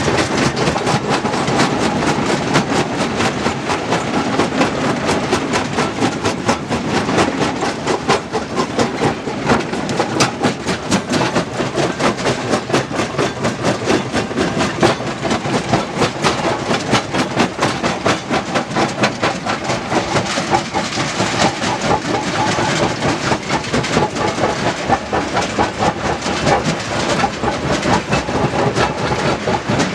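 Heavy machinery working stone, heard as a continuous loud clatter of rapid, irregular knocks over engine noise.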